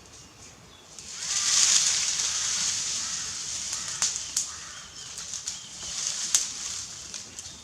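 Bonfire of cut brush flaring up about a second in, with a rushing hiss and sharp crackles and pops.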